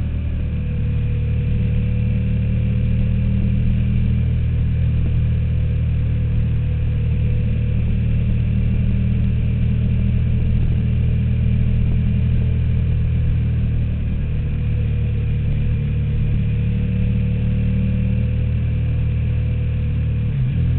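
KTM Super Duke's V-twin engine running at a steady pitch as the motorcycle rides along, with a short change in engine pitch right at the end.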